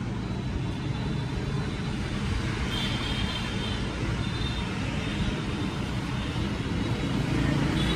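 Steady road traffic noise with a low rumble, plus a faint high tone about three seconds in.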